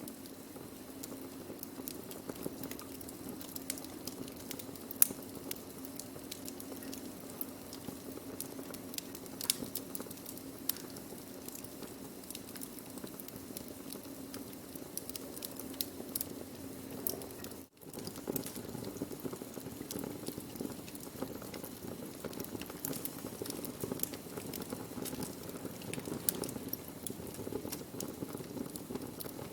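Burning wood in a fire: a steady low hiss and rustle with frequent sharp crackles and pops. The sound drops out for an instant about two-thirds of the way through, then carries on as before.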